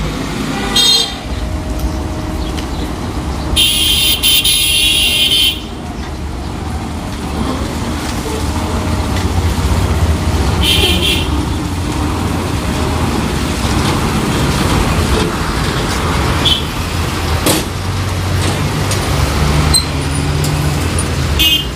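Heavy truck engine running in road traffic, with high-pitched horn blasts: a short one about a second in, a long one about four seconds in, another about eleven seconds in, and brief toots near the end.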